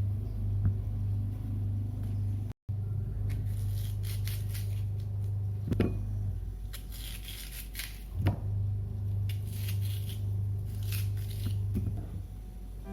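Soft scraping and rustling from handling things by hand, with two light knocks, over a steady low hum.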